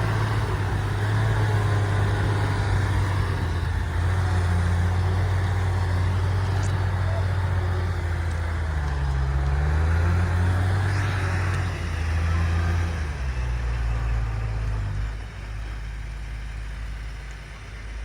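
Heavy diesel engine of earthmoving machinery running under load, its pitch rising and falling several times around the middle. Near the end it settles to a lower, quieter run.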